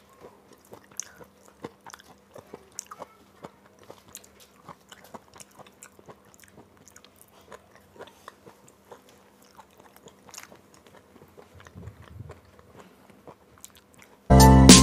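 Close-miked mouth sounds of eating rice and dal by hand: irregular wet clicks and smacks of chewing and finger-licking. Music starts abruptly just before the end.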